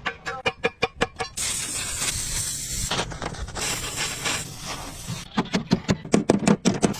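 Two long bursts of loud hissing, an air or spray jet, with a brief pause between them. Runs of rapid, even ticking or tapping come before and after.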